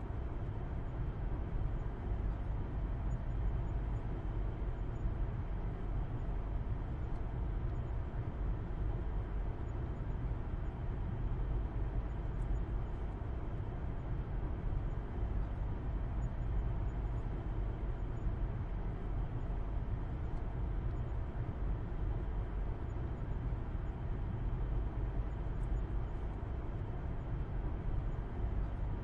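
Steady low rumble of a car driving along, as heard from inside: engine hum and road noise at an even cruising speed.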